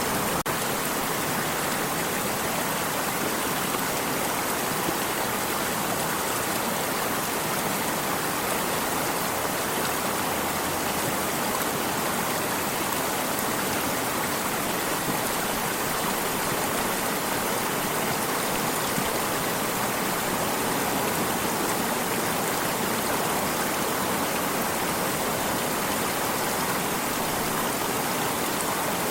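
Flowing stream: steady rushing, splashing water at an even level throughout.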